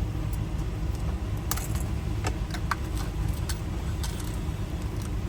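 Small metal lock tumbler wafers and springs clinking and ticking as they are handled and sorted while a lock cylinder is recoded, heard as a few sharp, scattered clicks over a steady low hum.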